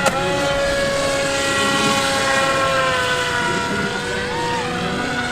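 Electric motors of radio-controlled model airplanes in flight: several overlapping whines, steady but slowly drifting down in pitch and wavering, with a short click just after the start.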